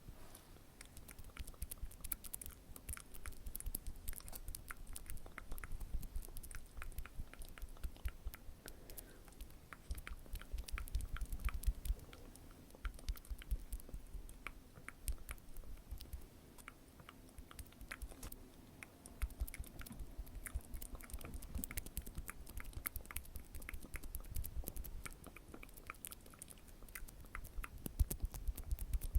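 ASMR mouth sounds: a dense run of soft wet clicks and smacks, quieter for a while around twelve seconds in and again a little later.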